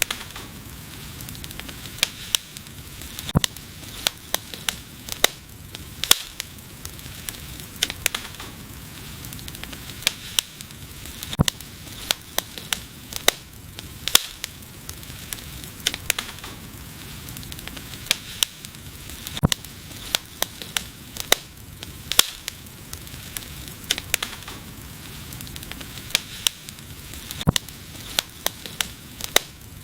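Wood fire crackling: frequent, irregular sharp pops and snaps over a steady soft hiss.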